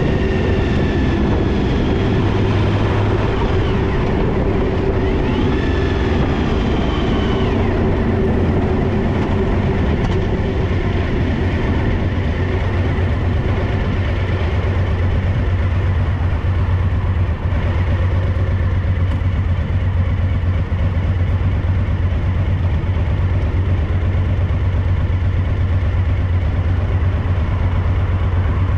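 Suzuki DL1000 V-Strom's 90-degree V-twin engine running with a rear-cylinder misfire. Its note shifts in pitch over the first eight seconds or so, then holds steady.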